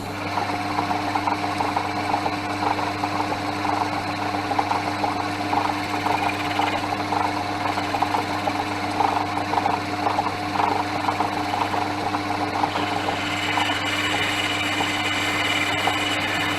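Portass Model S mk2 metal lathe running with a steady hum and a rough, fluttering drone while facing off the end of a round-bar workpiece. A higher whine joins in about 13 seconds in.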